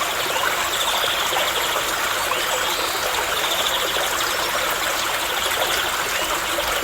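Stream water running steadily, with a rapid high trill coming in and out twice behind it.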